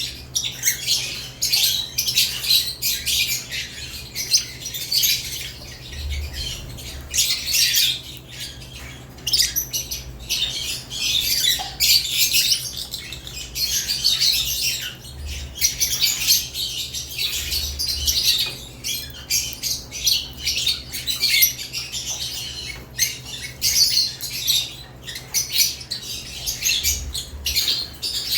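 A flock of caged lovebirds chattering continuously: shrill, rapid chirps and squawks overlapping, with occasional soft low thumps of birds moving in the cage.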